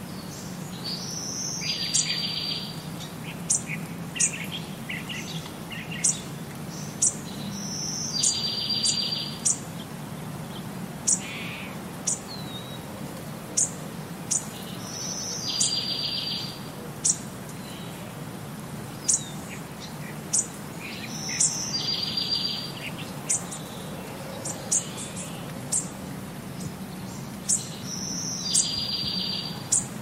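Birds singing over a steady hiss of rain. One bird repeats a short phrase ending in a buzzy trill about every six or seven seconds, five times in all, while sharp high chirps come every second or two.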